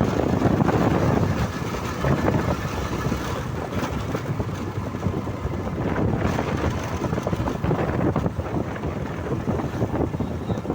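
Hero Karizma ZMR motorcycle riding along: engine and road noise under steady wind buffeting the microphone.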